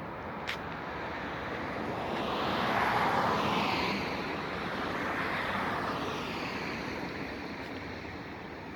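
A vehicle passing by: a rushing noise that swells to a peak about three seconds in and then fades away.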